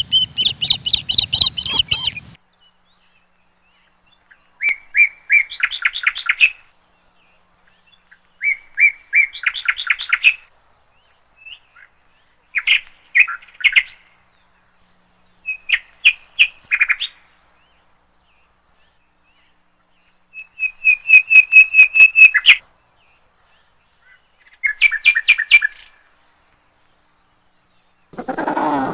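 A bird calling in phrases of quick repeated chirps. Each phrase lasts one to two seconds, and there are about seven of them with short pauses in between.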